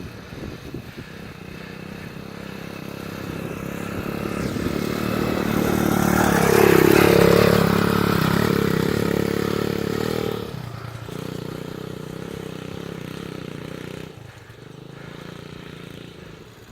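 Irbis TTR 110 pit bike's small single-cylinder four-stroke engine running as it is ridden. It grows louder to a peak about seven seconds in, then drops to a lower, quieter note after about ten seconds.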